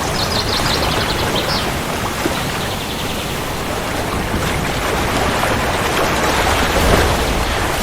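Steady rain falling, an even hiss. A brief high, rapid trill runs for about a second and a half near the start.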